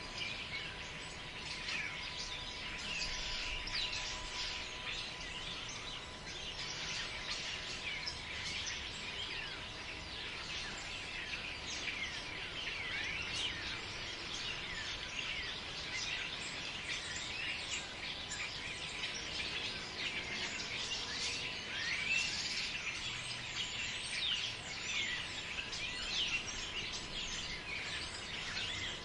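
Forest ambience dominated by a dense, continuous chorus of many birds chirping and twittering, with a faint steady thin tone under it.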